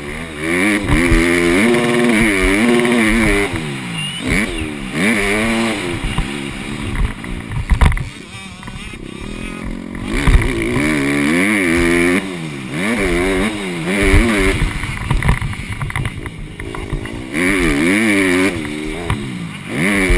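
Honda CRF150R four-stroke single-cylinder motocross engine revving hard, its pitch climbing and dropping again and again as the bike accelerates and backs off.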